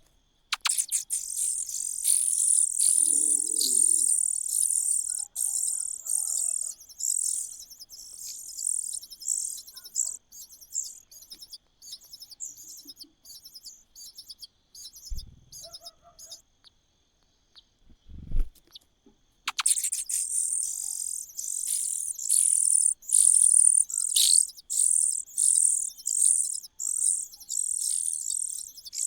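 Nestling birds begging: rapid, very high-pitched peeping calls in two long bouts, the second starting about two-thirds of the way through. Two soft low thumps fall in the quieter gap between the bouts.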